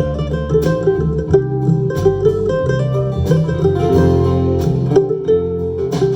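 Country string band playing an instrumental break between sung verses: picked acoustic guitar and other plucked strings over a steady bass line, with no singing.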